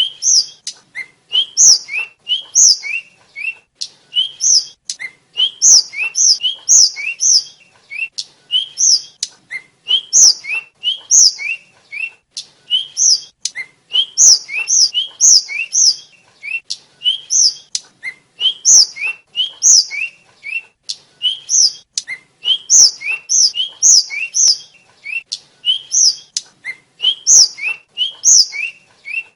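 A flycatcher (sikatan) singing a fast, continuous run of short rising chirps, each a lower note followed by a higher, brighter one, several a second, with faint clicks among them.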